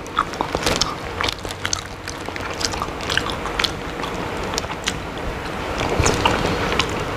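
A person eating smoked salmon dipped in sambal terasi: chewing and biting mouth sounds, a run of many short clicks.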